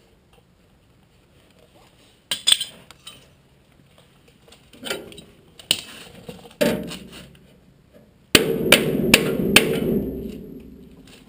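Hammer blows on sheet-steel body panels: a few separate strikes, then near the end a louder stretch of about two seconds with three sharp strikes over a steady din that fades out.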